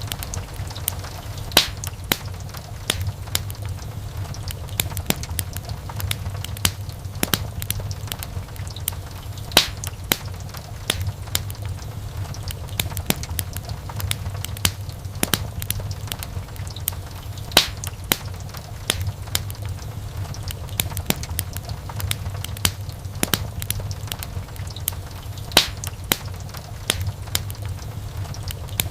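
Wood fire burning in a fireplace, with irregular sharp crackles and pops over a steady low rumble of flame. A few pops stand out louder than the rest.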